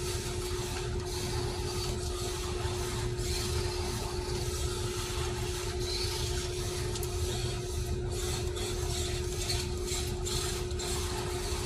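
Arrma Granite 1/10-scale RC truck running, its drivetrain whirring and grinding, over a steady hum, with a few brief clicks in the second half.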